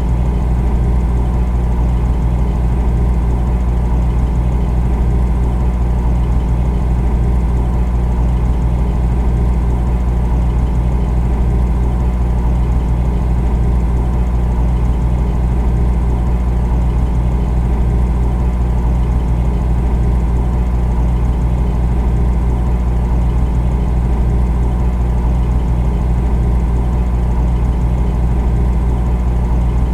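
Refrigerator running: a steady low motor hum with a few fainter steady tones above it.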